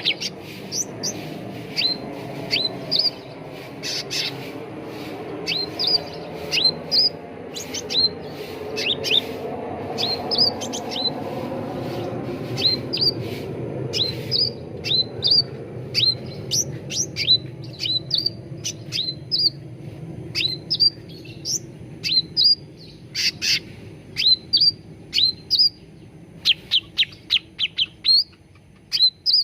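Cucak ranting calling: a rapid run of short, sharply falling chirps, often in quick pairs and clusters, over a low background rumble that fades near the end.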